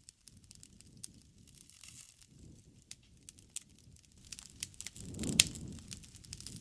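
Wood campfire crackling: scattered sharp pops over a low rush of burning flames, with one louder pop about five seconds in.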